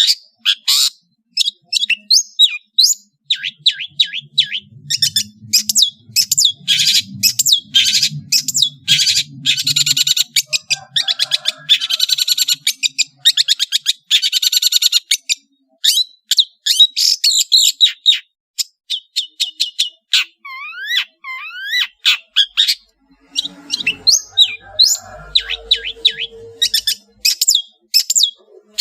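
Long-tailed shrike (cendet, Madura type) singing a loud, fast, highly varied song of sharp chips, rising and falling whistles, and dense rapid trills in the middle.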